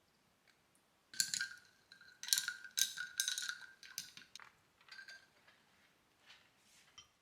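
Cutlery clinking repeatedly against a dish, each strike ringing at the same pitch, then a few softer knocks toward the end.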